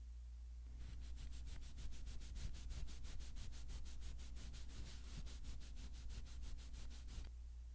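A cloth rag rubbed briskly back and forth over an oil-finished solid wood tabletop, working finish into the wood in quick, even strokes, about six a second. It starts about a second in and stops shortly before the end.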